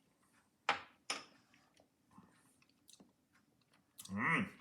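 Mouth sounds of a person tasting a spoonful of thick hot sauce: two short sharp sounds near the start, then light smacking clicks, and a short hummed "mmm" with a wavering pitch near the end.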